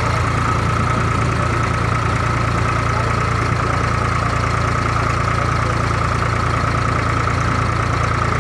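A loud, steady engine drone with a constant high whine running through it.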